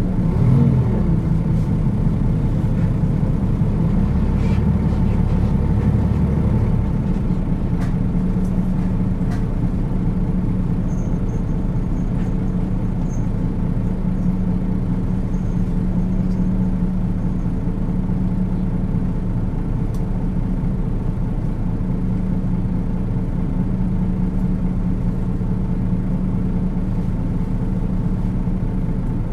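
Nissan Diesel KL-UA452 city bus's diesel engine heard from inside the passenger cabin, running with a steady hum. A heavier low rumble in the first seven seconds or so eases off into an even, idle-like drone.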